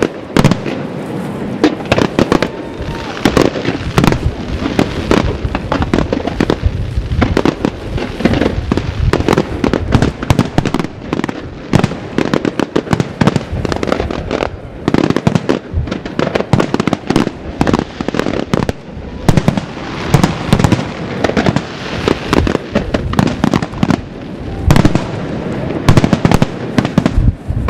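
Aerial firework shells bursting one after another in a professional display, a dense run of bangs, several a second, without a break.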